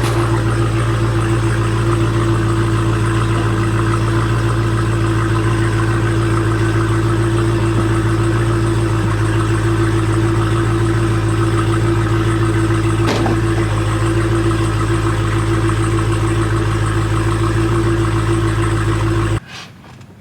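Car engine running with a steady, unchanging hum, and a single click about 13 seconds in. The sound cuts off abruptly about a second before the end.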